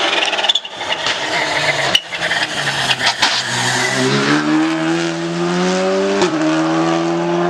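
Rally car accelerating hard: its engine note climbs steadily, breaks briefly for a gear change about six seconds in, then climbs again. Before that, a rush of tyre noise with sharp clicks.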